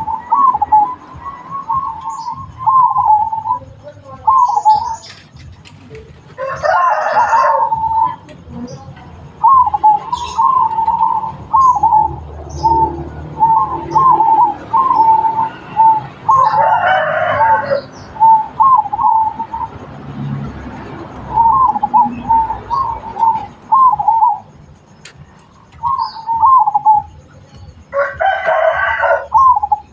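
Zebra dove (perkutut) cooing in long runs of short, quick notes. A rooster crows three times over it: about a quarter of the way in, just past the middle, and near the end.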